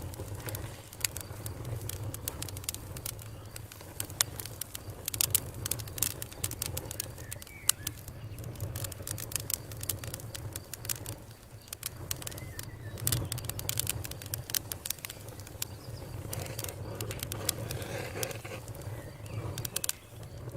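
Campfire crackling: irregular sharp pops and snaps, some louder than others, over a steady low rumble of burning.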